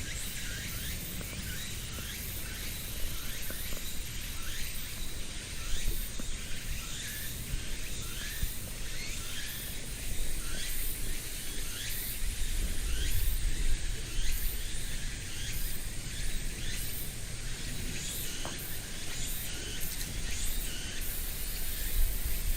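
Outdoor ambience with a bird's short falling chirps, repeated over and over, over a steady hiss and a low rumble.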